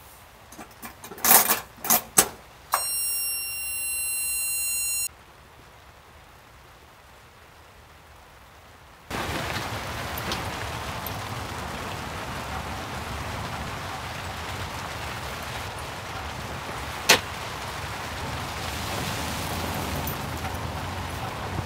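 Steady rain falling, starting suddenly about nine seconds in and running on with one sharp click near the end. Before it come a few knocks and a steady high electronic-sounding tone of about two seconds.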